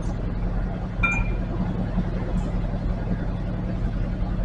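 An engine idling steadily, with a single light metal clink about a second in.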